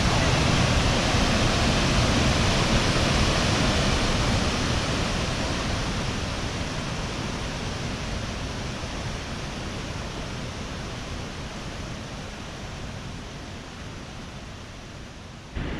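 Steady rushing roar of Cumberland Falls, a large river waterfall, growing gradually quieter.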